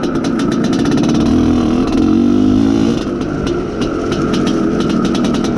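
IZh Planeta Sport's single-cylinder two-stroke engine running under load on the move, the revs rising a little about two seconds in and easing back at about three seconds. The engine is tuned with slightly late ignition and a slightly rich mixture for soft low-end pull.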